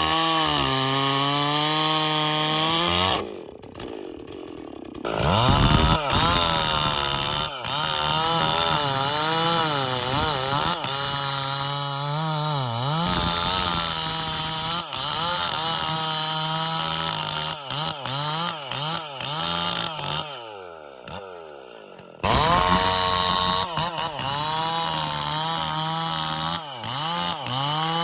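Stihl MS440 two-stroke chainsaw running at high revs in a cut, its pitch dipping and recovering as the chain takes load in the wood. It drops back to idle twice, about three seconds in and again about twenty seconds in, then revs up hard again.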